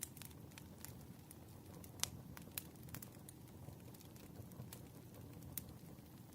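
Wood fire crackling: irregular sharp pops and snaps over a low, steady rumble of burning logs, the loudest pop about two seconds in.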